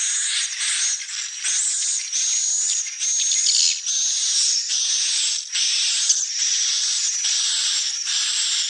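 Swiftlets twittering: a continuous stream of high, rapid chirps and trills, coming in short phrases about once a second.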